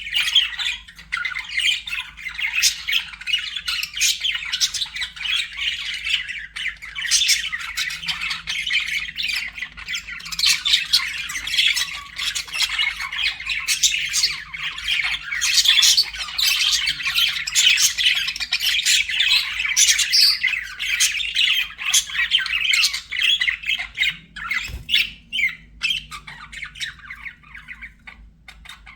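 Budgerigars chattering non-stop in a dense stream of quick chirps and squawks, thinning out near the end.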